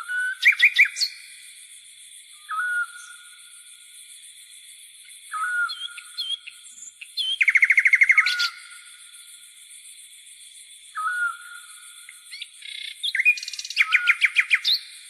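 Birds singing: a short rising whistled note repeated every few seconds, with two fast trilled phrases, one near the middle and one near the end. Behind them runs a steady high-pitched insect buzz.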